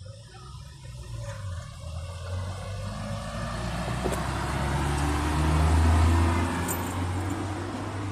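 Low rumble of road traffic, growing louder to a peak about six seconds in and then easing off.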